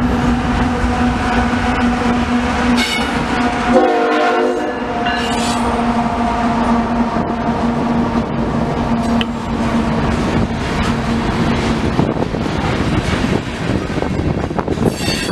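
Loaded coal hopper cars of a freight train rolling past: a steady rumble and clickety-clack of steel wheels on the rails. A steady hum runs through most of it and stops about twelve seconds in, with a short burst of high pitched squealing about four seconds in and high squeals near the start and end.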